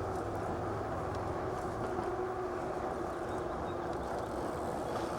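Steady wind noise on a clip-on microphone with no windscreen, mixed with tyre rumble, while riding an electric bike.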